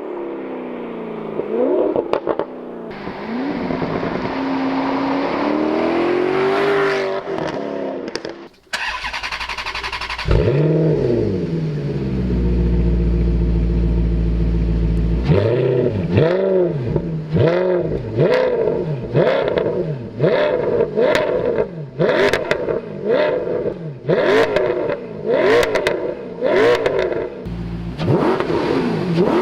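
Alfa Romeo 8C's 4.7-litre V8 running loud, first pulling with a rising pitch. From about halfway it is blipped in quick revs that rise and fall about once a second.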